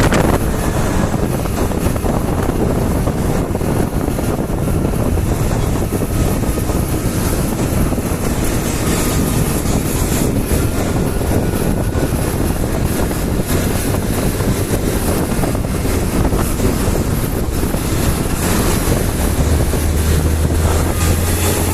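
Steady rush of a motorcycle ride: wind noise over the microphone with the engine running underneath, unbroken throughout.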